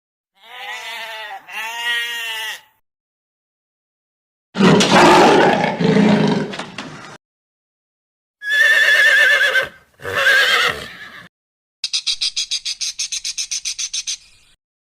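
A string of separate animal calls with silences between them: two short wavering calls, then a louder, deeper, rough call, then two more wavering calls, and near the end a fast high pulsing trill at about seven pulses a second.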